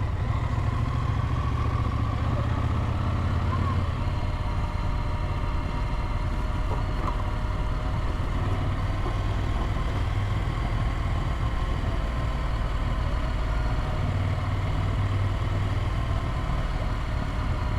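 Adventure motorcycle's engine running steadily while riding, with a constant low drone.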